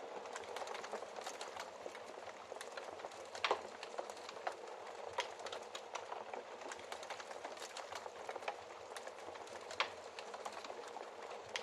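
Wood fire crackling in a fireplace: a steady soft hiss with frequent small pops and snaps, two louder pops about three and a half seconds in and again near the end.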